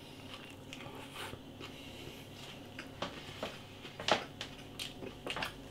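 A man chewing a mouthful of McChicken BLT, a chicken burger with soft bun, lettuce and tomato: wet mouth clicks and smacks at irregular moments, the loudest about four seconds in.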